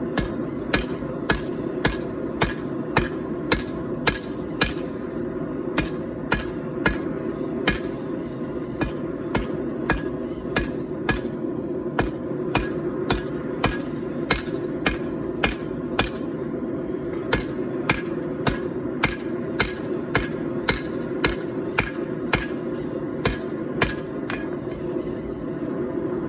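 Hammer blows on hot 4140 steel over an anvil, about two strikes a second in a steady rhythm, each with a short metallic ring, over a steady low background noise.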